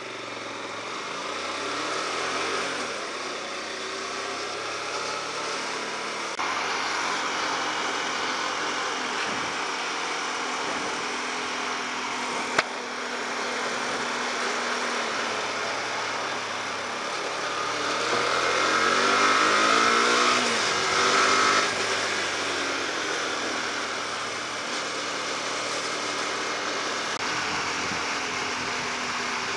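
Hyosung GT250R's 250 cc V-twin engine running as the motorcycle rides through traffic, with wind noise on the microphone. The engine pitch rises and falls with throttle and gear changes, climbing and getting loudest about two-thirds of the way through. There is one sharp click near the middle.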